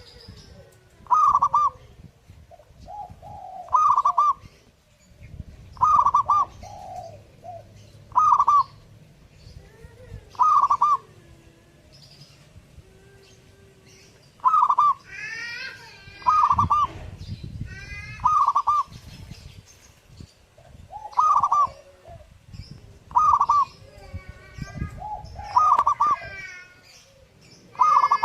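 Zebra dove (perkutut) cooing over and over, a short loud call about every two seconds. Other birds chirp faintly in the background, more busily in the middle and near the end.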